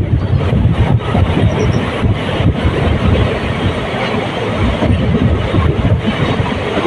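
Passenger train running along the track: a steady, dense running noise, heaviest in the low end.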